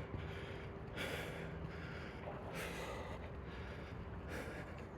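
A man breathing hard from walking uphill, with a hissing breath about every second and a half.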